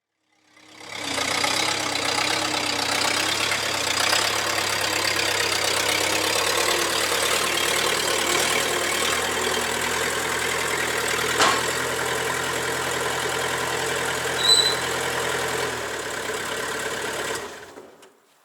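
Bobcat 773 skid steer's Kubota four-cylinder diesel engine running steadily, fading in at the start and out near the end, with one sharp click about eleven seconds in and a brief high chirp a few seconds later.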